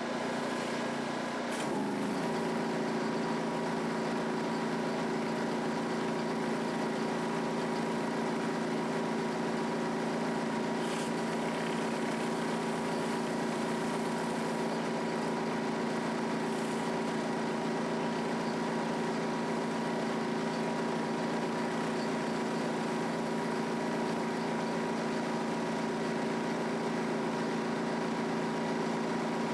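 Gas engine of a 3,500 PSI, 5.5-gallon-per-minute pressure washer running steadily; its note dips slightly about two seconds in, then holds.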